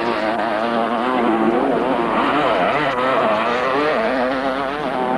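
Several two-stroke motocross motorcycles racing, their engines revving up and down as they accelerate, shift and back off, overlapping one another.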